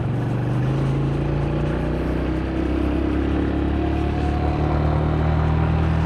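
Car engine running steadily while driving, its pitch and loudness rising slightly toward the end.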